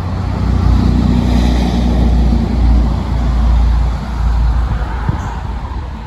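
A motor vehicle passing on the road, a low rumble that swells over the first few seconds and then fades.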